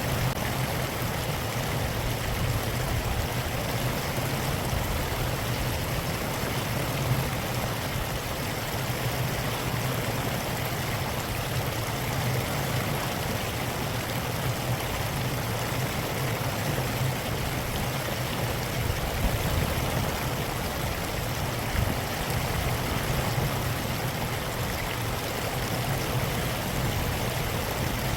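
Mountain valley stream flowing steadily, an even rush of running water.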